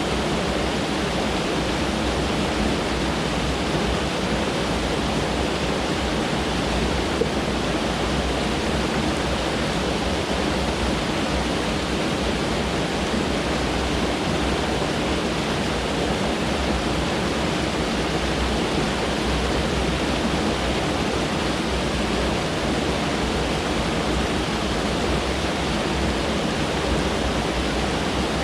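Mountain stream rushing over rocks, a steady, even roar of running water.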